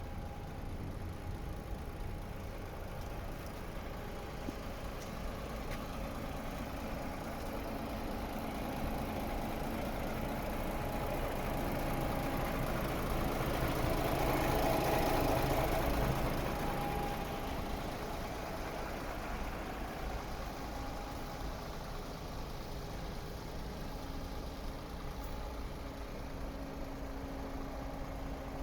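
DAF XF 460 truck's 12.9-litre six-cylinder diesel idling steadily. It grows gradually louder toward the middle, then falls back to the same idle.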